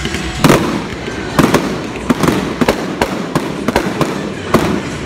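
Fireworks display: a rapid, irregular series of sharp bangs, about a dozen in five seconds, the loudest about half a second in, over a continuous low rumble of further bursts.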